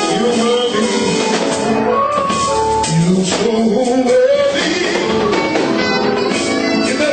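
Loud live gospel praise music: a band playing, with voices singing over it.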